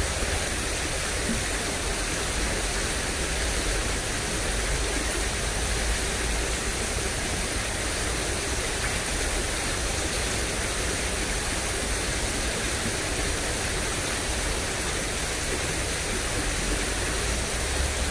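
Steady rushing of flowing water in a ditch running high after rain, with a low rumble underneath.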